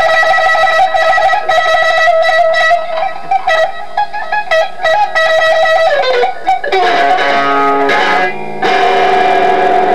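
Electric guitar soloing: a fast trill on one high note, a downward pitch dive about six seconds in, a rougher passage, then a long held note with vibrato.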